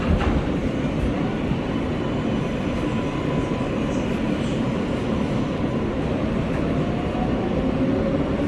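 R143 subway train running on the L line: a steady rumble of wheels on rail, with a faint electric propulsion whine that rises slowly in pitch from about six seconds in.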